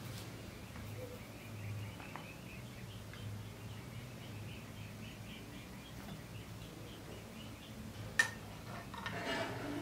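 Quiet room tone with faint bird chirps repeating a few times a second in the background, and one sharp click of a metal spoon against a yogurt cup about eight seconds in.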